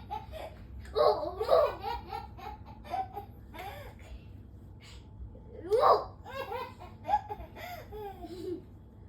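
A baby laughing in repeated bursts of belly laughs, the loudest about six seconds in.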